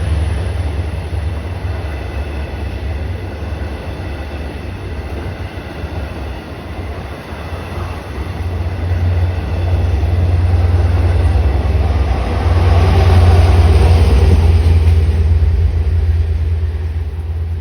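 Train running through a station with a heavy low rumble. The noise swells about nine seconds in, stays loud for several seconds, then fades near the end.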